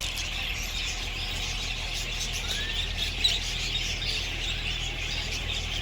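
A flock of budgerigars chattering continuously, a dense twitter of many small overlapping chirps.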